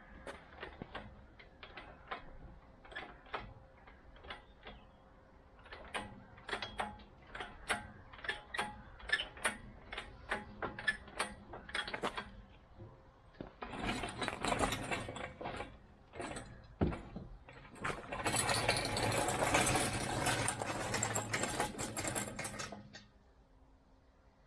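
Quick, irregular mechanical clicking and ratcheting, then two spells of loud rushing, scraping noise that stop shortly before the end.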